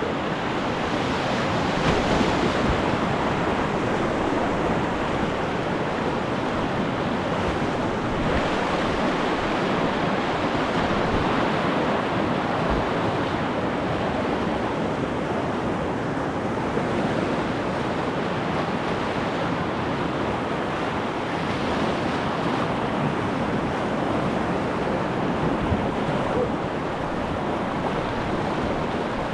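Whitewater river rapids rushing steadily, a dense, unbroken noise of moving water.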